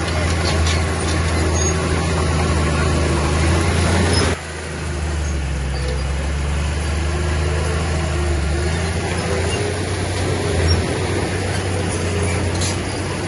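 Heavy diesel engine of earth-moving machinery running steadily with a deep, even hum. About four seconds in there is a sudden break, and the level dips before the engine sound carries on.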